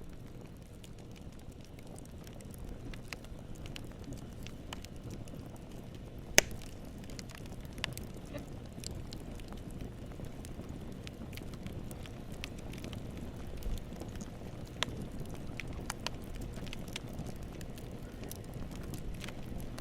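Campfire burning: a steady low rumble of flames with scattered crackles and pops of burning wood, one sharp loud pop about six seconds in.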